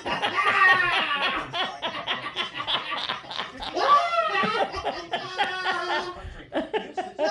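People laughing, with strong peaks about a second in and again about four seconds in.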